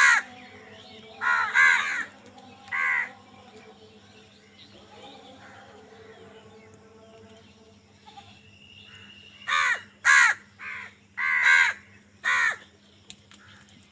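Crows cawing: a few harsh caws at the start, then a pause, then a run of about six caws near the end.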